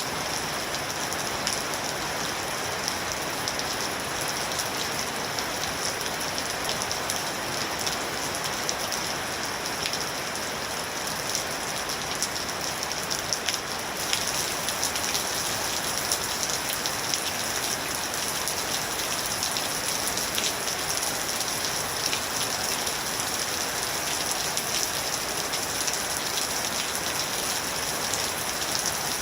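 Steady rain falling, an even hiss with individual drops ticking through it. About halfway through, the high hiss steps up slightly.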